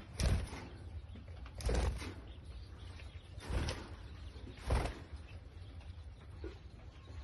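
Budgerigars fluttering: four short bursts of wing noise, a second or two apart.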